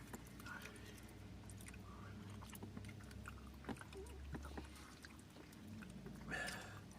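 Quiet eating sounds inside a car: faint clicks and small spoon-and-cup handling noises over a low steady hum, with a brief louder rush of noise about six seconds in.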